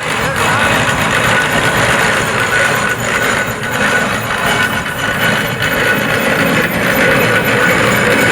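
Loud, steady running of machinery, with a faint constant high tone over it.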